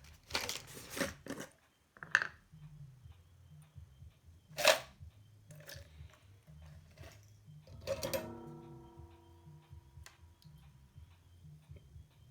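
Workbench handling noises: several knocks and clicks, with a sharp tap about four and a half seconds in. Near eight seconds a small metal object clinks and rings briefly.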